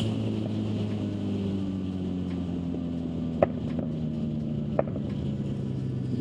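Motorcycle engine running steadily, its pitch easing down slightly, with two sharp clicks partway through.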